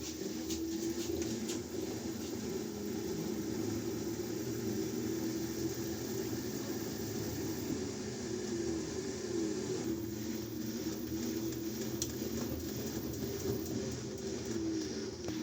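Washing machine running through a wash: a steady motor hum with a whine that wavers up and down in pitch as the drum turns, and a few faint clicks.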